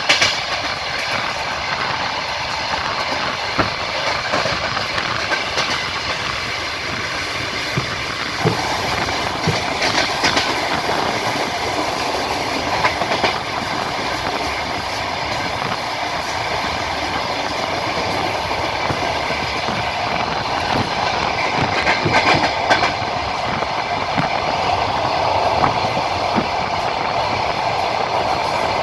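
Passenger train running along the line: a steady rolling rumble of the carriage with the wheels clacking over the rail joints now and then.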